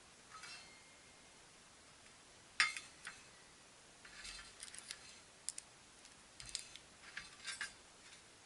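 Scattered light clicks and clinks of small metal parts being handled, with one sharp click about two and a half seconds in and quick clusters of clicks later on.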